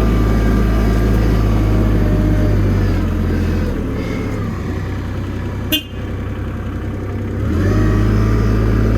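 Forklift engine running steadily, easing off about three seconds in and picking back up near the end. There is one sharp click around the middle.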